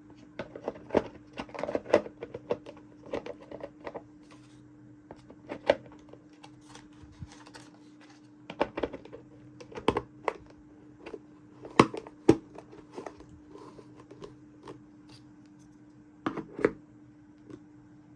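Small plastic toy pieces being handled and set down: irregular clicks and taps in clusters, over a faint steady hum.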